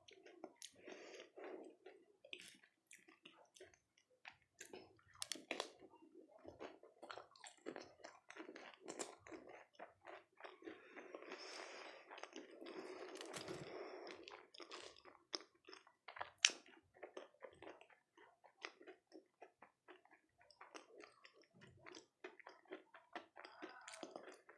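Close-miked chewing and crunching of dahi golgappe, crisp puris filled with yogurt and spiced water: crisp crackles mixed with wet mouth sounds, with a denser, more continuous stretch of chewing about halfway through.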